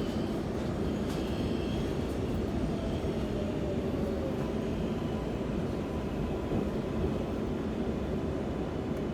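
Steady hum and rumble inside an R142A subway car standing at a station with its doors open, mostly the car's ventilation and onboard equipment running.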